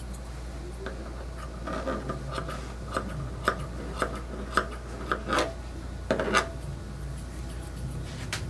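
Grooming shears snipping through a puppy's coat, a run of short cuts about two a second with a pause in between, over a steady low hum.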